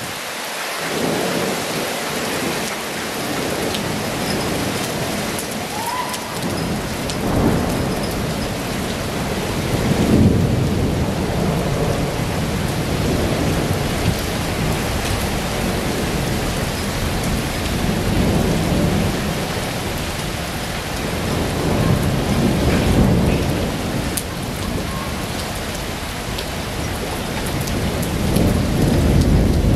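Heavy rain pouring steadily, with low rumbling swells that rise and fade several times.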